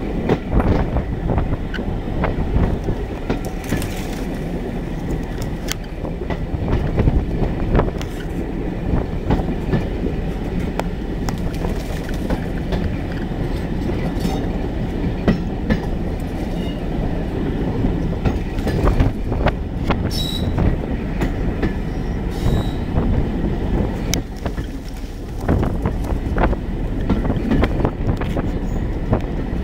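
Ride noise aboard a 2-EPB electric multiple unit carriage in motion: a steady low rumble of wheels on the track with irregular clicks and knocks, and brief high wheel squeals about two-thirds of the way through.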